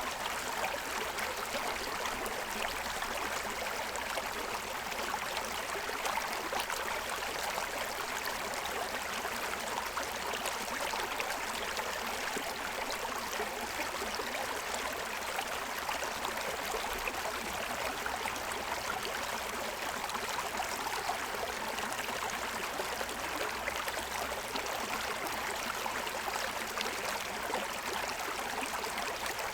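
Shallow stream running steadily over a stony bed, an even rushing of water.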